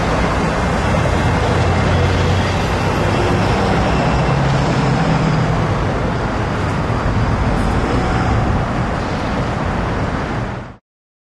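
Diesel train passing, with a steady engine rumble and rolling noise that cuts off suddenly near the end.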